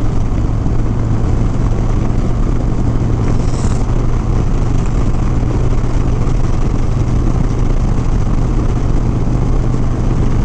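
Harley-Davidson Softail Sport Glide's V-twin engine running at a steady, even pitch, with a constant hiss of wind and road noise over it.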